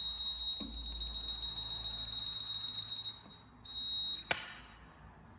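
Garage door opener's beeper sounding a steady high-pitched tone while its Door Code button is held in remote-programming mode. The tone breaks off about three seconds in, sounds again briefly, then stops with a sharp click.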